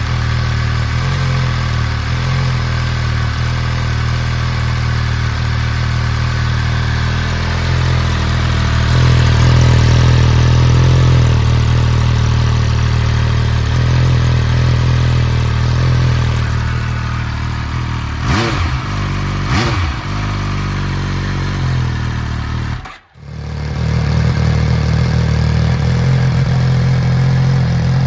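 MV Agusta Brutale Dragster three-cylinder engine idling through a QD aftermarket end silencer, with two quick throttle blips about two-thirds of the way through. The sound drops out for a moment near the end, then the idle carries on.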